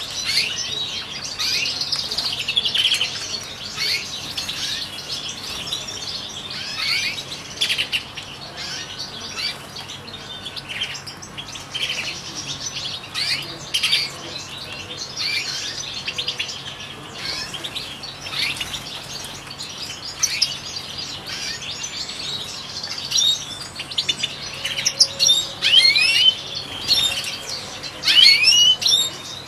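Several European goldfinches twittering and chirping in quick, overlapping calls, busiest near the end.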